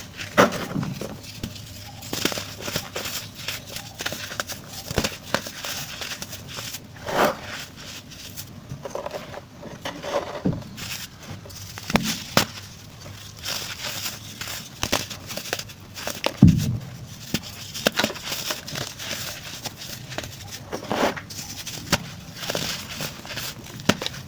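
Chunks of white baking soda being crushed and crumbled, giving irregular crunches and crackles with a few sharper snaps and one duller thud about two-thirds of the way through.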